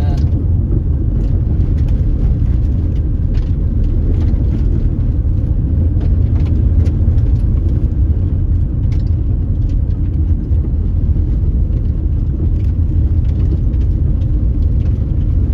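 Car driving on a dusty unpaved road: a steady low rumble of tyres and engine, with scattered faint clicks.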